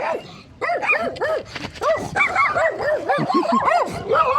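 Several dogs whining and yipping: quick, overlapping high-pitched cries, several a second, after a brief lull at the start.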